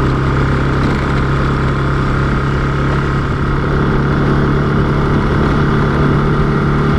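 Motorcycle engine running at a steady speed while being ridden: an even, unchanging hum over a rush of noise.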